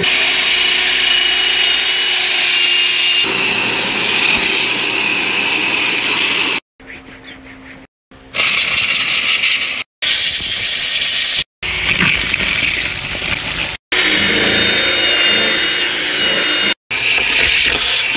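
Power tools running on workshop work, heard as a string of short clips. Each clip cuts off abruptly, with a brief gap of silence before the next, and some carry a high steady whine.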